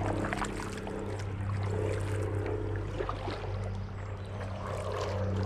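Kayak paddles dipping and splashing in river water, with small irregular splashes and drips. A steady low hum runs underneath.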